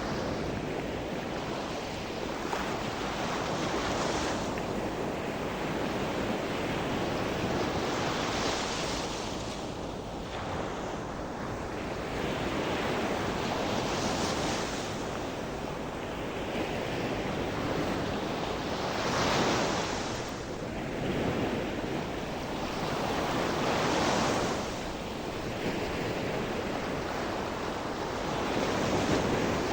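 Sea surf: waves breaking and washing up on the shore, a swell of rushing noise rising and falling every few seconds, with wind on the microphone.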